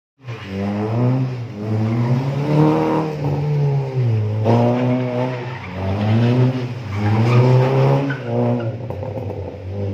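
Honda Brio hatchback's engine revving up and falling back over and over, a rise about every second, as the car is driven hard through a slalom around cones.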